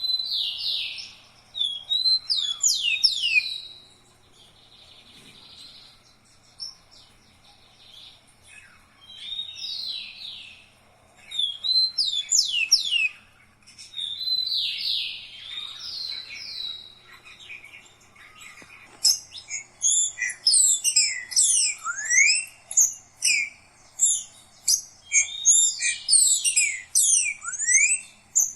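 A songbird singing: separate phrases of quick sweeping whistled notes, then, about two-thirds of the way in, a dense, fast run of sharp falling chirps.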